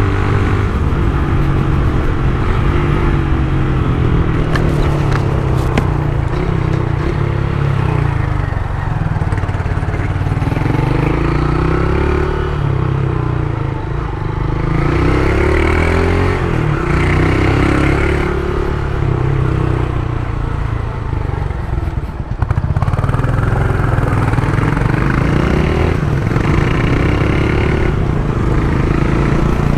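Honda CG Titan 150's single-cylinder engine running through an aftermarket Turuna exhaust while riding. The engine pitch rises and falls several times as it accelerates and eases off, with a brief drop in loudness a little past the middle.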